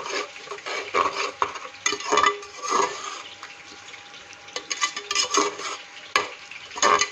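A spoon stirring frying biryani masala in a cooking pot, scraping and knocking against the metal at irregular moments over a faint sizzle.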